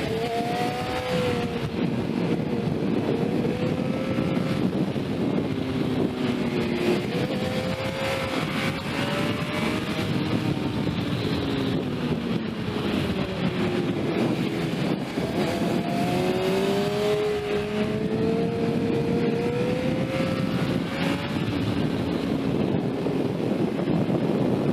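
Sport motorcycle engine under hard riding, its note repeatedly climbing as it accelerates, then dropping back through gear changes and deceleration, over a steady rush of wind on the microphone.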